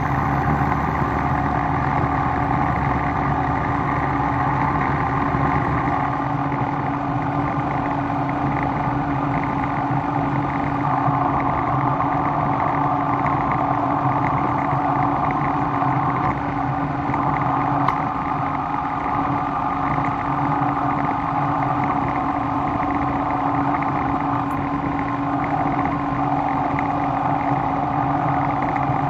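Shop machinery running steadily, a continuous motor hum with a constant tone and no strikes or pauses.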